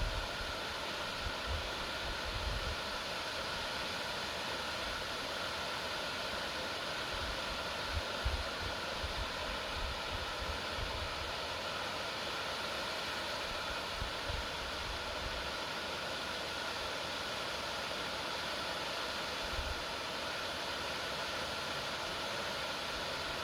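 Steady outdoor noise, an even hiss like wind through the forest, with a few soft low thumps scattered through it.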